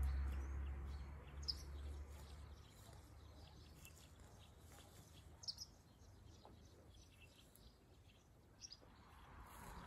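Faint outdoor ambience with a few short, high bird chirps scattered through it, and a low rumble that fades out over the first couple of seconds.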